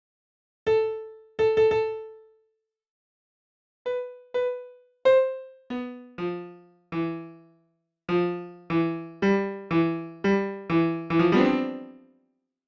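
Single piano notes struck one at a time, each ringing and fading, with silence between them; a few sparse notes at first, then lower notes join and they come faster, ending in a quick cluster of notes.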